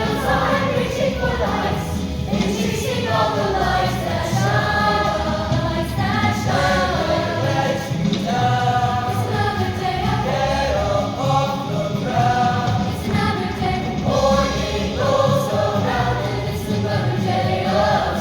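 A choir singing, with sustained, shifting chords of many voices.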